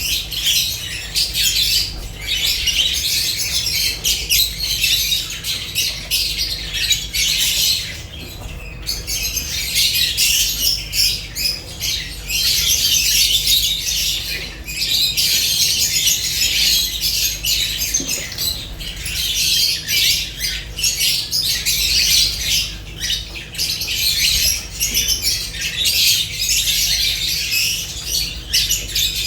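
A flock of lovebirds chattering and squawking continuously, a dense mass of shrill, overlapping calls with a short lull about eight seconds in. A low steady hum lies underneath.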